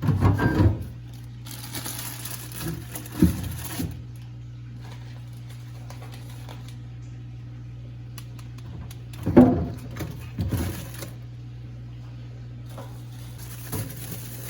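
Kitchen items being handled: a few knocks and clatters of things set down on a counter, with bursts of hiss in between, over a steady low hum.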